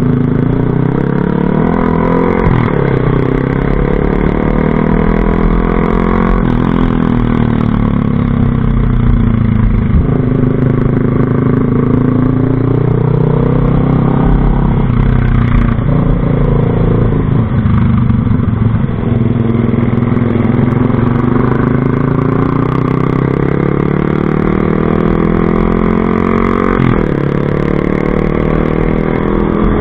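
A vehicle engine running loudly through its exhaust pipe. Its pitch rises and falls again and again as the engine speeds up and slows down.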